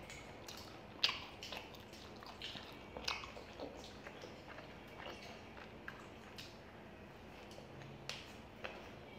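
Close-miked eating sounds of two people chewing spicy Indo-Chinese noodles and fried chicken: wet, squishy chewing and lip smacks broken by scattered sharp clicks, the loudest about a second in.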